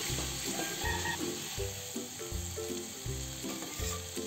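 Ground shallot, garlic and candlenut paste sizzling steadily in hot oil in a wok. Soft background music with a regular bass pulse plays under it.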